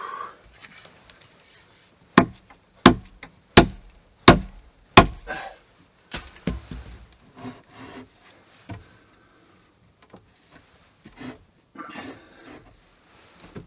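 Five sharp, loud blows on wood, about two-thirds of a second apart, followed by lighter knocks and wood scraping as timber pieces are worked and handled.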